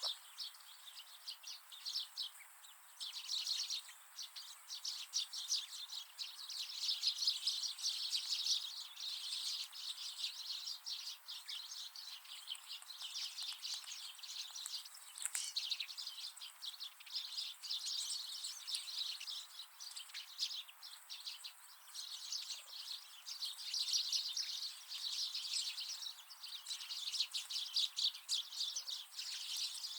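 Many small wild birds chirping and twittering, with dense overlapping short high chirps in an almost unbroken chatter.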